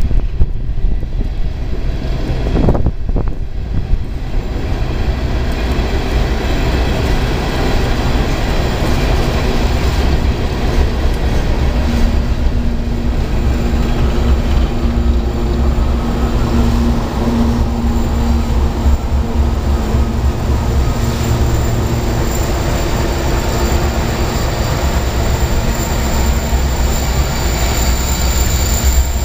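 Freight train of coal hopper cars rolling past on the rails: a steady heavy rumble and clatter of steel wheels, with drawn-out whining tones from the wheels at times in the middle.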